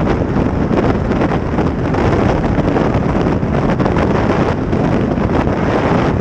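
Heavy, steady wind rush on the microphone over a running motorcycle.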